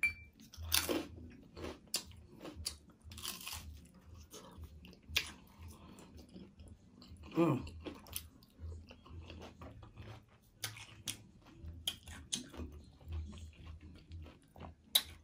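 Close-miked crunching and chewing of nacho chips topped with Flamin' Hot Cheetos, a run of irregular crisp crunches.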